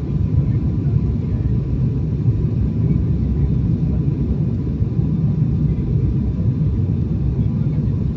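Steady low rumble of airliner cabin noise, the engines and airflow heard from inside the plane, with a faint steady whine above it.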